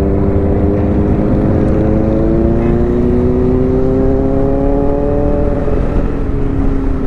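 Motorcycle engine pulling steadily under acceleration, its pitch climbing slowly for about five seconds and then easing off slightly. Low wind rumble on the helmet-mounted microphone runs underneath.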